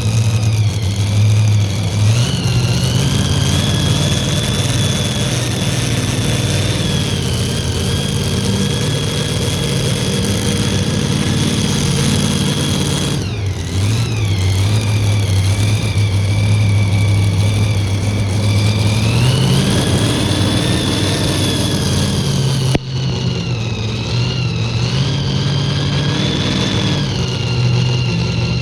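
A tractor engine running steadily, with a high whine above it. Its speed dips and comes back up about 13 seconds in and rises again around 19 seconds. The sound breaks off abruptly about 23 seconds in and the engine carries on.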